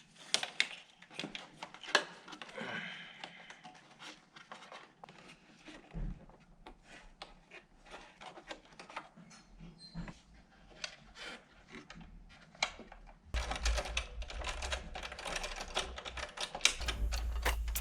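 Irregular clicking and rattling of hands working small plastic parts and wiring. About two thirds of the way through, a louder, denser layer with a low hum joins.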